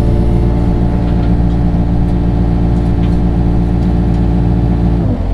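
Engine of a digging machine running steadily at a constant speed. Its note drops and changes near the end.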